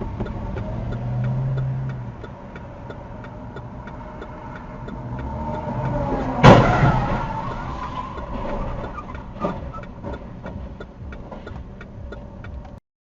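Car engine and road noise heard from inside a moving car, with a faint even ticking throughout. About six and a half seconds in comes a sudden loud crash, a vehicle collision, followed by a second or so of crunching and rattling, then a smaller knock a few seconds later.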